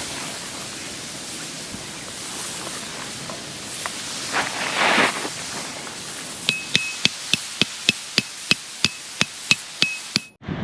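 Wind rushing over the microphone, then from about six seconds in a quick run of about a dozen metal-on-metal hammer strikes, roughly three a second, each with a short ring: a steel tent peg being hammered into the ground. The sound cuts off abruptly just before the end.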